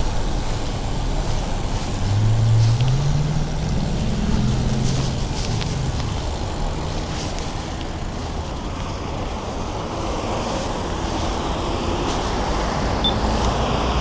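Busy road traffic: a steady low rumble of passing cars, with one vehicle's engine rising in pitch as it accelerates away about two seconds in.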